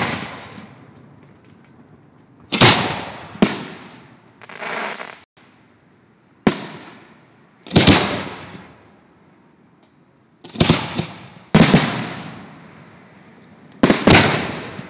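Fireworks going off: about eight sharp bangs from shells being launched and bursting, spaced a second or two apart, each trailing off in a rolling echo.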